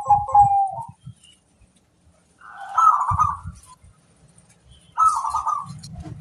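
Zebra dove (perkutut) cooing: three short rolling coo phrases, the first trailing off about a second in, the next about two and a half seconds in and the last about five seconds in, with low thuds alongside.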